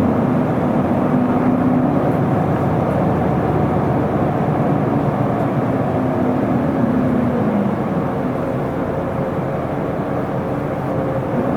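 Isuzu Erga city bus's diesel engine running, a steady low hum whose note drops and eases slightly about seven seconds in.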